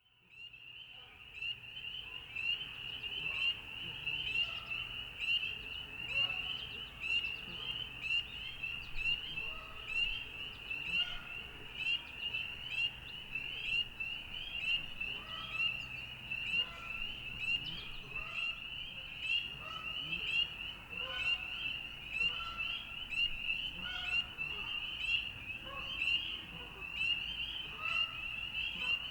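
A dense chorus of frogs calling: many high, shrill, pulsing calls overlapping without a break, with fainter lower calls scattered through it. It fades in during the first second or so.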